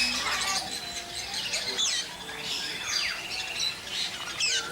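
A flock of birds chirping and squawking at once: many overlapping calls, short whistled notes and quick rising and falling chirps.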